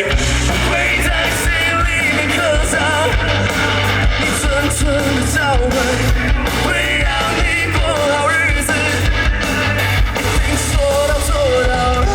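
Rock band playing live, with a singer's voice over the full band.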